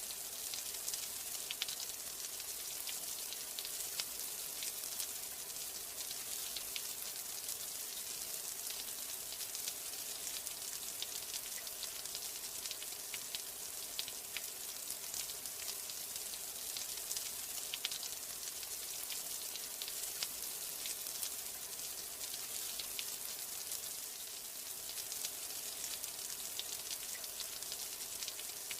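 Steady rain: a dense, even hiss of falling drops, peppered with many small droplet ticks.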